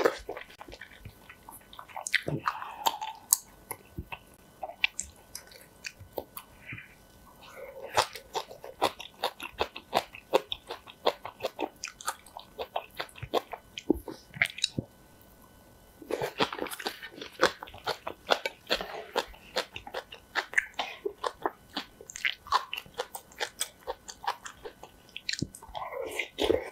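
Close-miked eating: crunchy chewing of kimchi and spicy noodles with rice, many quick wet mouth clicks, in two long bouts with a short pause in the middle and a slurp near the end.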